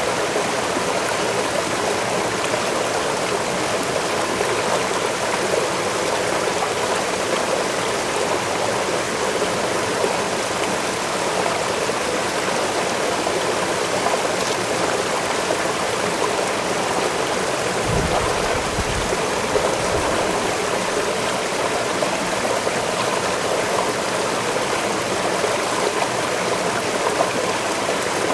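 A waterfall pouring steadily: an even, unbroken rush of falling water. A brief low rumble comes in about two-thirds of the way through.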